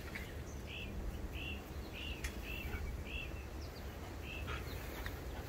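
A bird repeating a short chirp, about seven times at roughly two a second, over a steady low background rumble.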